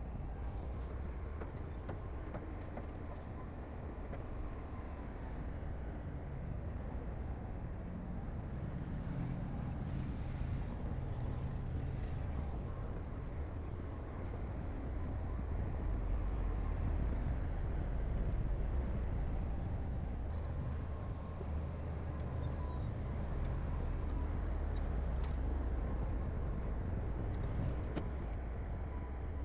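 Heavy earthmoving machinery's diesel engine running steadily with a deep rumble, swelling somewhat about halfway through.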